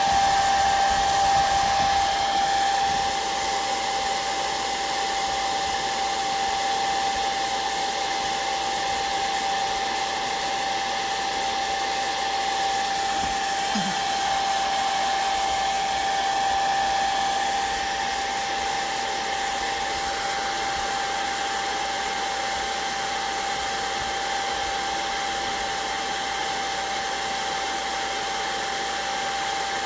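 Hand-held hair dryer running steadily, with a steady whine over its airflow, drying wet watercolor and ink on the paper.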